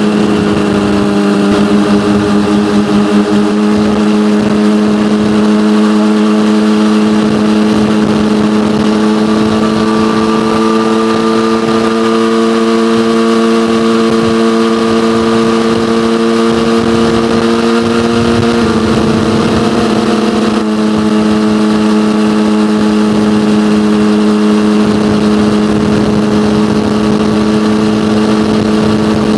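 Yamaha motorcycle with an aftermarket SC-Project exhaust cruising at a steady throttle, its exhaust note holding one pitch. About two-thirds of the way through the note dips briefly, then returns to the same pitch.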